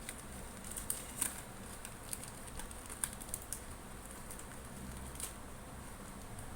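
A pet parrot's beak making soft, irregular clicks and taps, a few of them sharper, as it pecks and nibbles.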